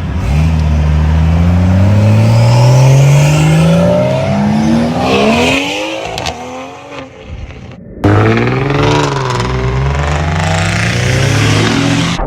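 A car engine accelerating hard, its pitch climbing steadily for about five seconds before fading. After an abrupt cut, an engine revs up and down.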